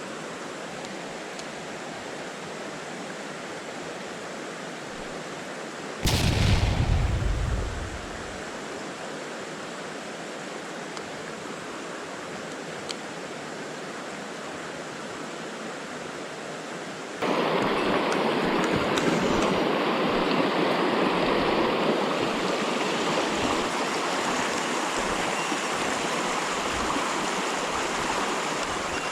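Mountain stream running, a steady rush of water. About six seconds in, a brief loud low rumble lasts about two seconds. About seventeen seconds in, the water suddenly becomes louder and fuller and stays that way.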